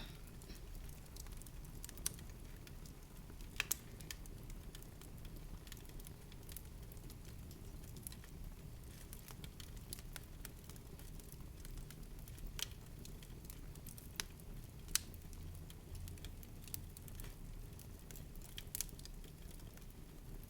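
Faint, irregular crackles and sharp ticks over a low, steady rumble.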